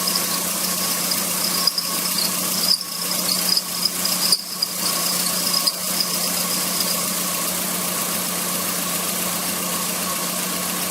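Car air-conditioning compressor squealing over the running engine, the high squeal wavering and stopping about seven seconds in. The noise comes from a faulty compressor that the mechanic says must be removed and sent for overhaul.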